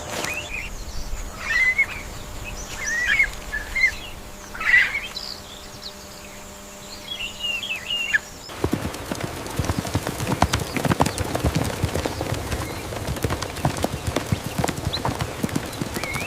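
A small bird chirping in short, bent calls. After a sudden cut, a fast, irregular clatter of sharp clicks and knocks, like hooves or something rattling, runs to the end.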